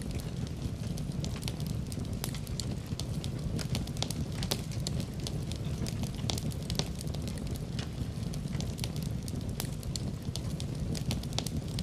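Wood fire crackling in a fireplace: a steady low rumble of flame with frequent irregular snaps and pops.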